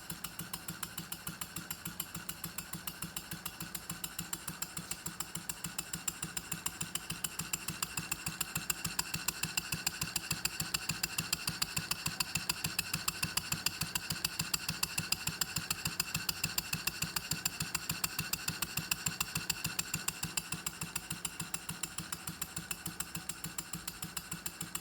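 Model Norden mill steam engine with a single-cylinder Stuart Half Beam cylinder and steam chest, running steadily with an even, rapid beat of clicks and exhaust puffs. It gets somewhat louder through the middle and eases off near the end.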